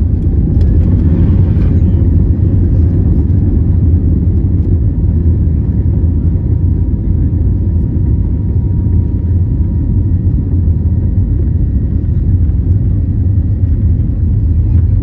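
Airbus A320neo's CFM LEAP-1A turbofans at high thrust, heard inside the cabin as a loud, steady low rumble with a faint steady whine above it.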